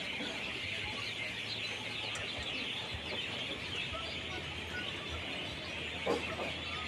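Dense evening chorus of many small birds chirping and calling at once, a continuous jumble of short high chirps. A single louder, lower call stands out about six seconds in.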